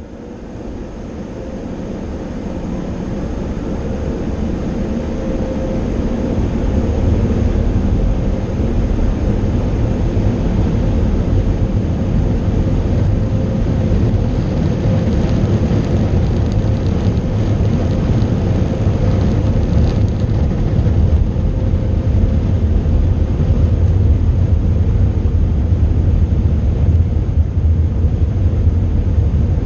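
Car wash air dryer blowers running, a steady loud rush of air with a deep rumble. It builds over the first several seconds as the car moves into the dryers, then holds.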